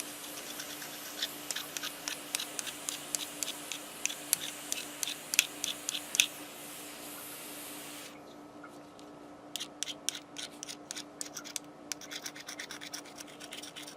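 Scratching and rubbing as the hot tip of a butane soldering iron is cleaned off: a run of short, sharp scratchy clicks. A steady hiss under them cuts off suddenly about eight seconds in.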